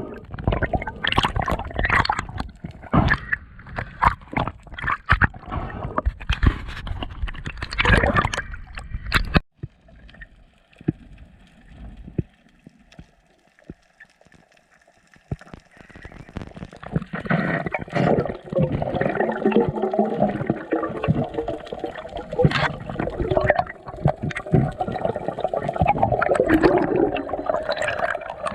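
Water sloshing and splashing close to the microphone for about nine seconds, cutting off abruptly. After a quieter stretch, a steady bubbling and gurgling of water sets in.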